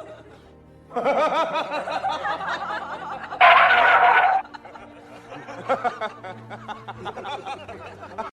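Background music with a person laughing and snickering, loudest in a burst of about a second a little past the middle.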